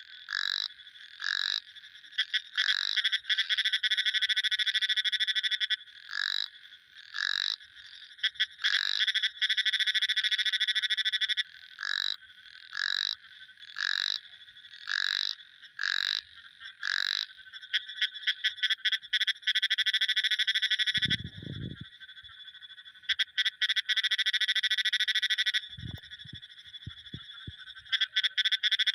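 Frogs calling: a dense, high trilling chorus, with short separate calls about once a second through the first half. Two brief low sounds, the second a few quick pulses, come in about two-thirds and nine-tenths of the way through.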